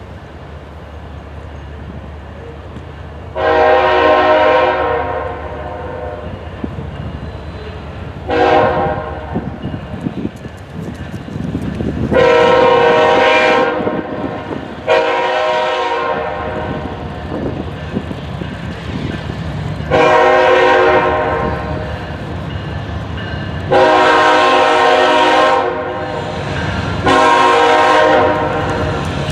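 Freight diesel locomotive horn sounding seven blasts for a grade crossing, mostly long with one short, over the low rumble of the approaching train.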